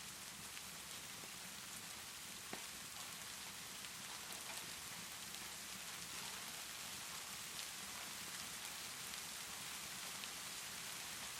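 Steady rainfall as a constant even hiss, with a few faint, sharp crackles from a log fire now and then.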